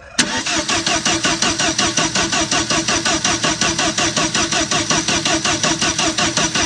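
Bobcat 732 skid steer's gasoline engine cranking on the starter for its first start on a newly fitted electronic ignition, plugs, wires, cap and coil. It comes in abruptly just after the start and chugs in an even rhythm of about seven or eight pulses a second.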